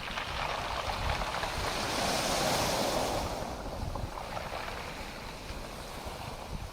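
Ocean waves washing onto the shore: one surge of surf builds to a peak about two to three seconds in, then draws back into a softer hiss.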